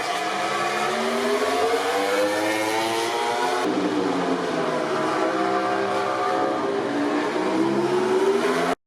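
MotoGP race bike engines revving hard under acceleration, their pitch climbing and then dropping over and over with each gear change. The sound cuts off abruptly just before the end.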